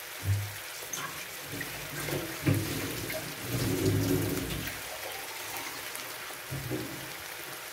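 Chicken and potatoes sizzling in soy sauce in a nonstick frying pan: a steady crackling fry, with a single knock about two and a half seconds in.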